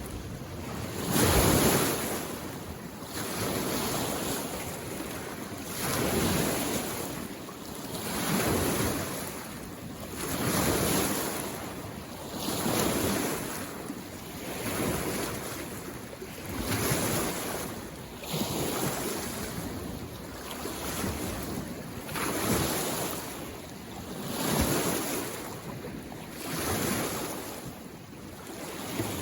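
Small lake waves lapping on the shore, one wash after another about every two seconds, steady and rhythmic.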